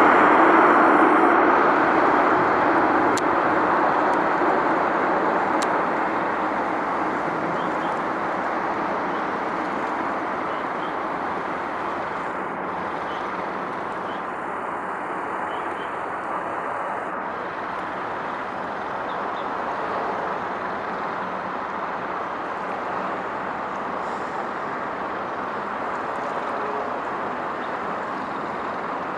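Steady rumble of road traffic. A louder passing vehicle dies away over the first several seconds, leaving an even traffic hum.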